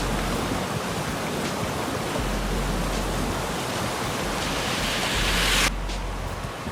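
Steady rushing noise of moving water, with a hiss that swells near the end and then cuts off abruptly about five and a half seconds in.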